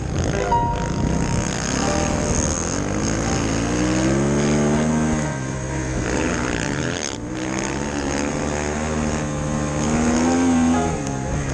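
Snowbike engine (a dirt bike fitted with a snow track) revving up and falling back, twice: once around the middle and again near the end.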